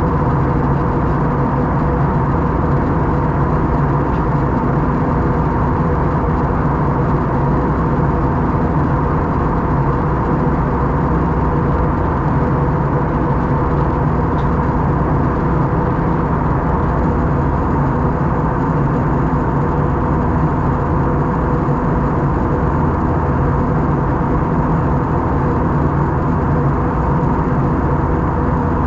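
Steady cabin noise of an Airbus A321 airliner in flight: the even drone of its jet engines and the rush of air, with a constant hum running through it.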